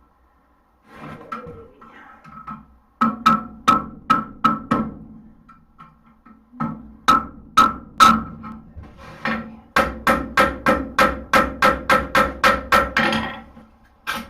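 Blacksmith's hammer striking hot horseshoe steel on an anvil, with a ringing note on each blow. The blows come in three runs of quick strikes with short pauses between, the last run about four blows a second.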